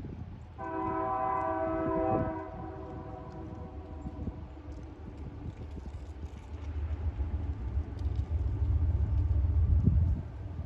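Diesel freight locomotive's air horn sounding one blast of under two seconds. A few seconds later comes a heavy low rumble of the locomotive and train growing louder, which cuts off sharply near the end.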